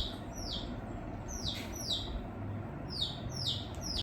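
A small bird calling repeatedly: a string of high, quick chirps that each sweep downward, coming irregularly about two a second, over a low rumble.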